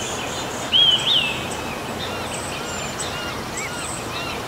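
Birds chirping over a steady background hiss. About a second in comes a louder two-part whistled call, then short arched chirps repeat a few times a second.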